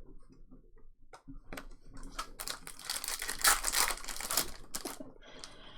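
Foil trading-card pack wrappers crinkling as packs are handled and torn open, densest in the middle of the stretch, with scattered small clicks and rustles around it.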